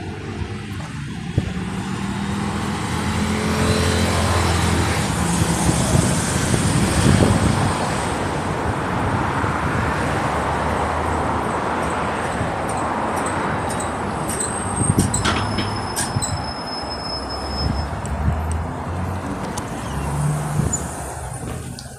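Electric bus pulling away and driving: a rising electric motor whine as it speeds up over the first few seconds, then steady road and tyre noise. Brief high-pitched squeaks about three-quarters of the way through.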